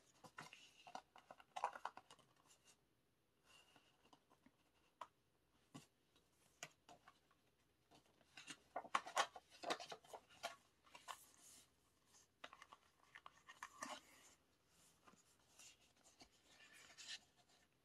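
Faint, irregular rustling, crackling and clicking of an album's paper and plastic packaging being handled, with a busier stretch about halfway through.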